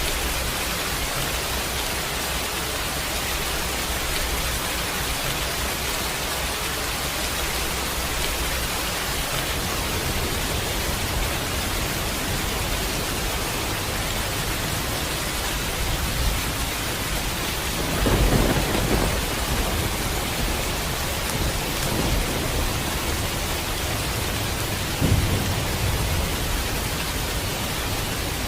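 Steady heavy rain with rolls of thunder: a loud rumble about two-thirds of the way in, a shorter sharp one near the end, and fainter ones between.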